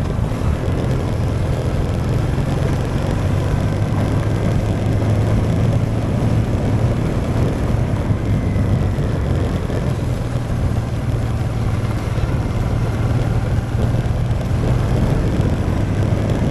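Honda Transalp XL650V's V-twin engine running at a steady pace while the motorcycle is ridden, with wind rush over it.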